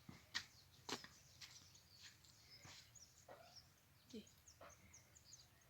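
Faint, scattered bird chirps and short high calls, with a few soft clicks early on.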